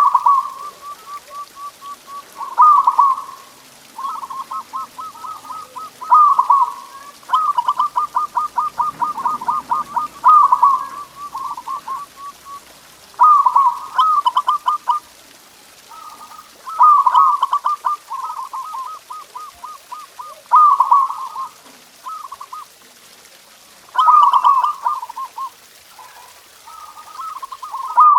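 Zebra dove (perkutut) song: repeated phrases, each a loud cooing burst followed by a fast run of short staccato coo notes, recurring about every three seconds.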